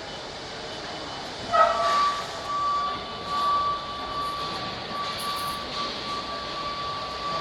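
A steady high-pitched tone starts with a short loud burst about a second and a half in, then holds on with a wavering level over a background hiss.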